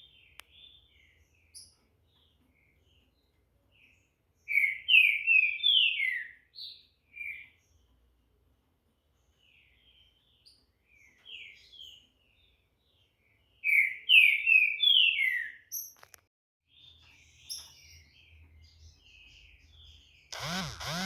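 Green-winged saltator (trinca-ferro) singing: two loud phrases of quick, clear whistled notes, about eight seconds apart, with softer scattered notes in between. A short rushing noise just before the end.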